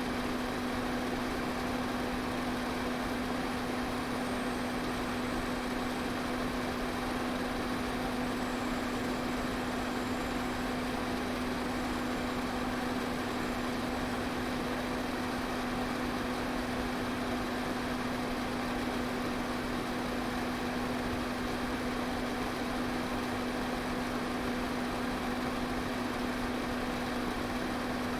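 Electric fan running steadily: an even rush of air over a constant low motor hum.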